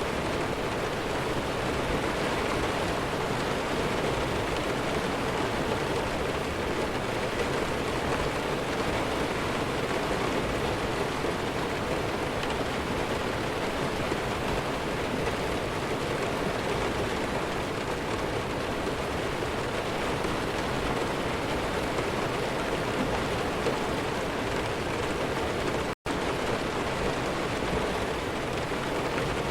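Steady heavy rain falling, a dense, even hiss with no thunder. It cuts out for an instant near the end.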